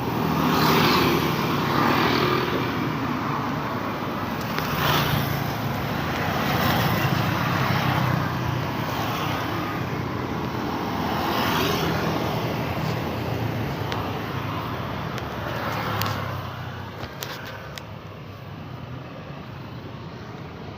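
Road traffic: a steady stream of cars and motorbikes passing one after another, each swelling and fading, thinning out near the end.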